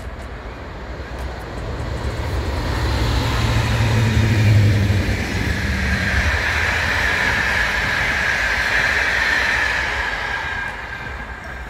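Bombardier TRAXX P160 AC2 electric locomotive hauling an intercity train past at speed. Its low electric hum swells to the loudest point about four seconds in as it goes by. Then comes the steady rolling noise of the passenger coaches' wheels on the rails, with a high steady tone in it, fading as the train draws away near the end.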